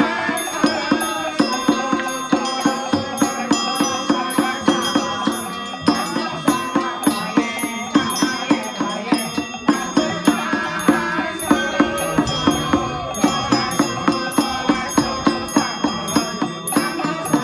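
Temple ritual music: a steady beat of sharp strikes, a little over two a second, under a wavering melodic line, with bells.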